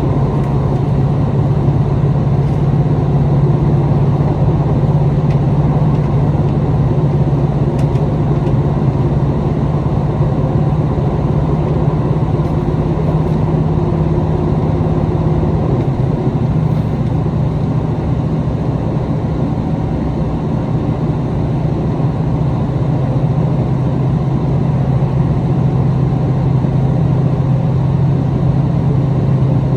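Interior running sound of a KiHa 261 series diesel limited-express railcar, heard midway between the car's front and rear power units: a steady low drone over the rumble of the train running on the rails.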